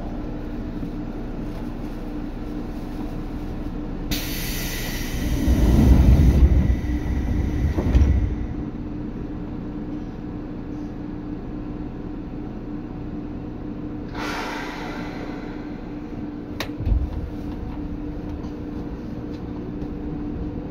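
Seibu 2000 series electric train running, heard from inside the car above its underfloor HB-2000 unit: a steady rumble with a constant hum. About four seconds in a hiss sets in and a heavy rumble swells, peaking twice before it fades around eight seconds. A shorter hiss comes about fourteen seconds in, followed by a sharp click and a thump.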